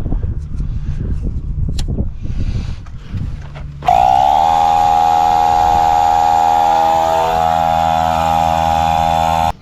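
Small electric tyre inflator switching on about four seconds in, its motor spinning up quickly and then running at a steady pitch until it stops abruptly. Before it starts there is low rumbling and a few knocks.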